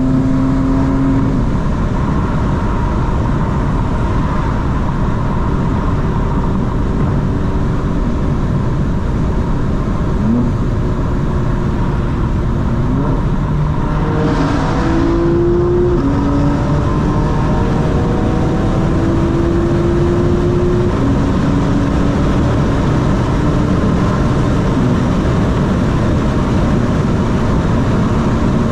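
BMW M4 Competition xDrive's twin-turbo 3.0-litre straight-six driving along over steady road and tyre noise, with its exhaust burbles switched off. Through the middle the engine note rises slowly and drops back a few times, and there is a brief rush of noise about halfway through.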